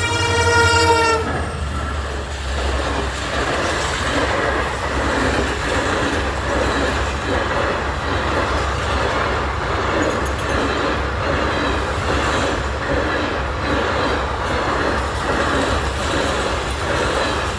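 Train horn sounding and cutting off about a second in, then a train passing close by: a steady rumble with rhythmic clatter of wheels over the rail joints.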